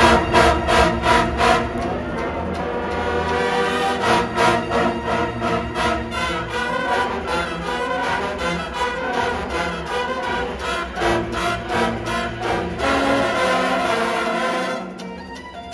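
Winds ensemble of brass with percussion playing a rhythmic passage with regular accented hits, falling to a softer held chord near the end.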